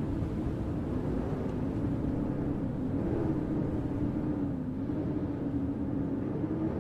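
Snowstorm wind over a city street: a steady low rush with a wavering hum running through it.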